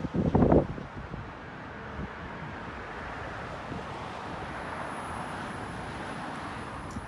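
Street traffic: a motor vehicle passing, a steady rush of engine and tyre noise that swells gently and eases off. A few loud bursts of noise come in the first second.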